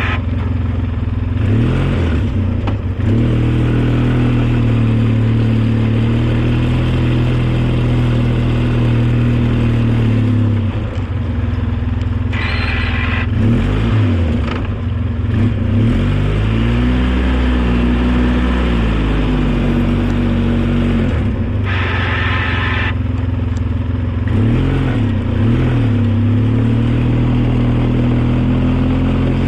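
Engine of a snow-plowing vehicle running under load, its pitch rising and falling repeatedly as it is throttled up and down. A brief higher-pitched whine comes twice, about a third and three quarters of the way through.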